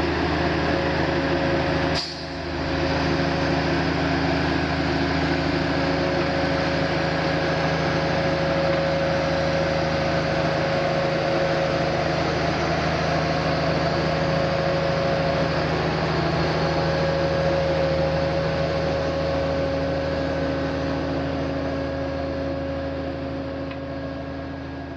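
A heavy vehicle's engine running steadily with a droning hum of several steady tones, broken by a brief click and dip about two seconds in, then slowly fading near the end.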